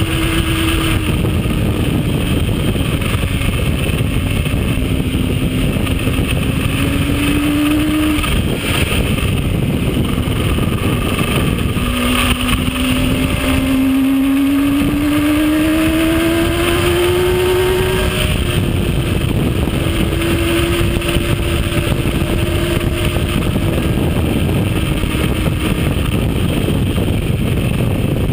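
Yamaha R1 sport bike running at highway speed, heard from the rider's own camera under heavy wind noise. The engine note climbs slowly, falls away about eight seconds in, then climbs again about twelve seconds in before settling.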